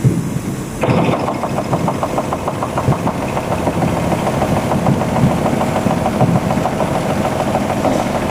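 A machine starts up about a second in and keeps running with a rapid, even rhythm.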